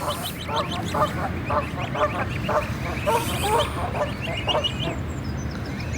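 A flock of geese calling, with many short honks overlapping one another and thin, high peeps from goslings among them.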